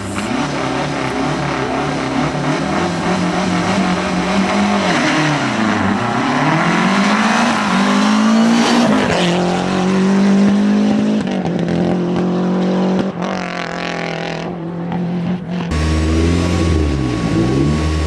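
Rally car engines revving hard, the pitch rising and dropping repeatedly through gear changes and lifts as a car approaches and passes at speed. After an abrupt cut near the end, another car's engine revs up and down.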